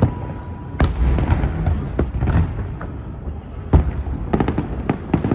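Aerial fireworks exploding in a rapid barrage: sharp cracks and booms over a continuous low rumble, with one loud bang about a second in, another near the middle, and a quick cluster of crackling reports near the end.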